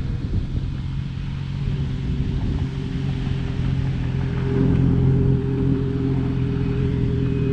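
Yamaha R6's inline-four engine running at low revs as the bike pulls away on the clutch alone, without throttle. Its pitch steps up about two seconds in and again about four and a half seconds in.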